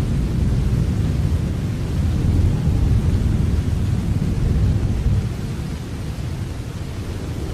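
Steady rain with a deep low rumble underneath that swells in the middle and eases off about five seconds in.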